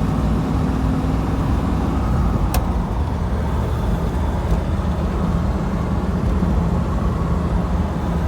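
1969 Camaro Z11 pace car's V8 engine running steadily while driving, with road noise. The engine note changes slightly about two seconds in, and there is a single sharp click about two and a half seconds in.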